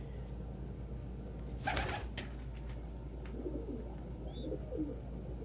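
Domestic pigeon cooing, a run of short wavering calls in the second half, as it calls for another bird. About a second and a half in, a brief rustle. A steady low hum runs underneath.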